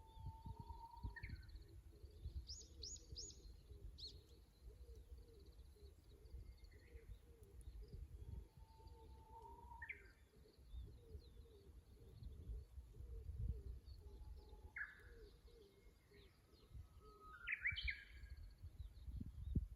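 Japanese bush warbler (uguisu) singing its 'hoh-hokekyo' song about four times, each a long whistled note followed by a quick rising flourish. Fainter chirps from other small birds sit over a low rumble.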